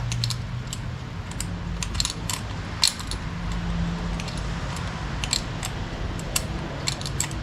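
Small metal tools and carburetor parts clicking and clinking irregularly while a pit bike carburetor is fitted and its small bolts are put on, over a steady low hum.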